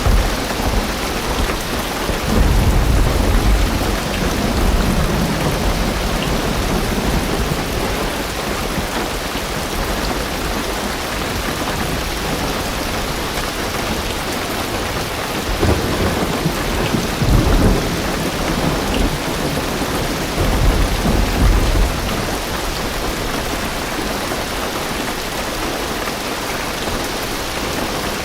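Heavy rain drumming steadily on a car's roof and windows, heard from inside the car. Low rumbles of thunder swell up three times: near the start, about halfway through and about three quarters of the way through.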